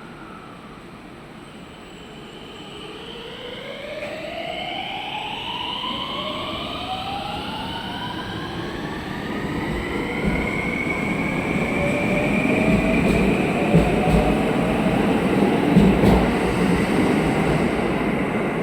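JR-built 521 series electric multiple unit pulling away, its traction inverter and motors whining in several tones that climb steadily in pitch as it accelerates, over growing wheel-and-rail rumble with a few knocks from the rail joints in the second half.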